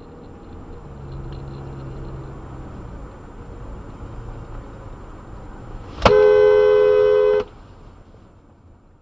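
Car driving with steady road and engine noise that builds slowly, then a single long blast of a two-tone car horn about six seconds in, lasting about a second and a half and cutting off suddenly.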